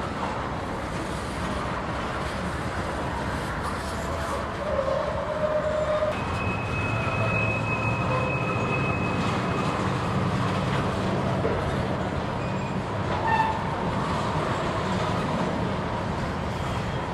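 Freight train rolling by with a steady rumble of locomotives and cars. A thin, high, steady squeal sounds for a few seconds midway.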